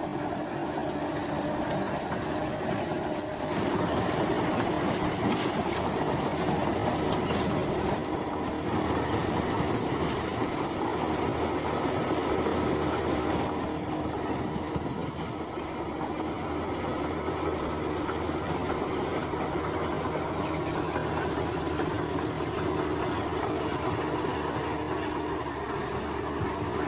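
Bulldozer's diesel engine running steadily under work, with a thin high-pitched squeal that comes and goes over it.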